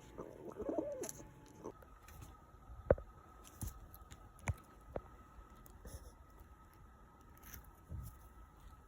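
A pet pigeon cooing once near the start, then a few scattered sharp taps.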